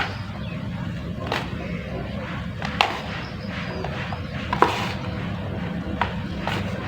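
Water poured onto a dry mud shape as it soaks and crumbles, with a steady wash broken by about five sharp cracks and pops.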